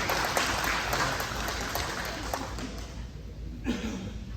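A crowd applauding an award winner, many hands clapping at once and dying away after about three seconds.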